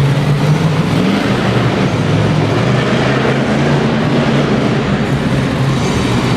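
Monster truck engine running loudly and steadily, its low pitch wavering slightly, with a wash of noise around it.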